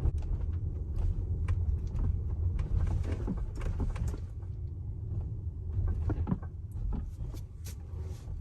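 Tesla Model X cabin while driving slowly: a steady low road and suspension rumble, with several short knocks and rattles scattered through it.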